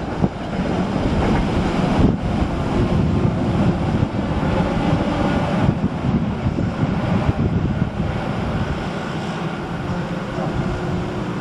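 Passenger train's wheels running along the rails as its last coaches pass and draw away, with wind buffeting the microphone. The sound eases a little near the end.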